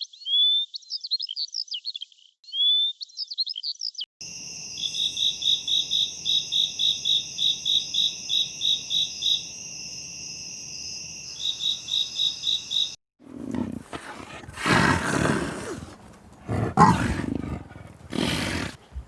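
A bird singing fast chirps and trills, cut to a steady high insect drone with chirps pulsing about two to three times a second, then cut to a large animal giving deep roars, a second or two each.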